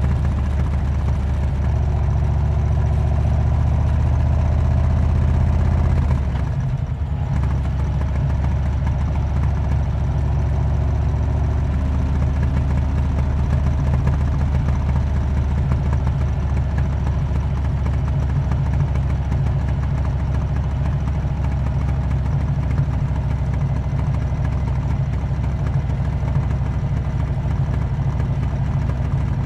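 Harley-Davidson Road King's V-twin engine running through a Cobra aftermarket exhaust, a steady low note that drops briefly about six seconds in and then runs on evenly.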